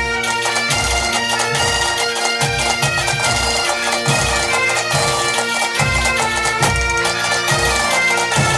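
Bagpipe music: a held drone under a moving melody, with a low beat about twice a second.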